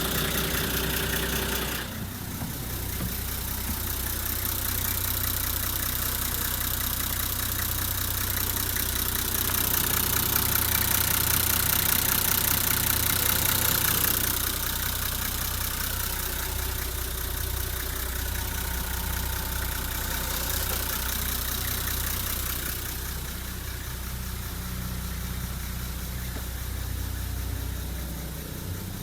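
Nissan Civilian bus's TD42 4.2-litre inline-six diesel engine idling steadily, growing louder and brighter for about five seconds in the middle before settling back.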